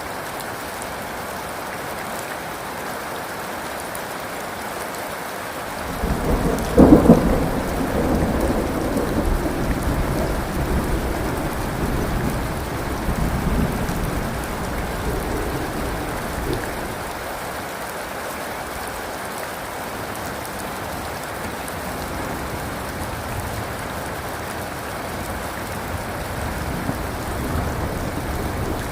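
Steady heavy rain falling. About six seconds in, a loud clap of thunder breaks and rolls on as a long rumble that fades over about ten seconds, and a softer rumble builds near the end.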